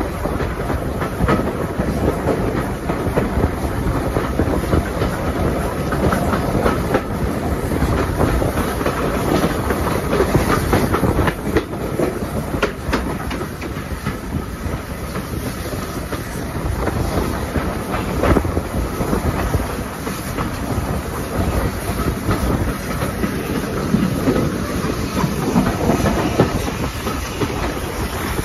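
Passenger coach of a steam-hauled heritage train running along jointed track and through pointwork: a steady rumble of wheels on rail with irregular clicks and clatters as the wheels cross rail joints and points, heard from an open carriage window.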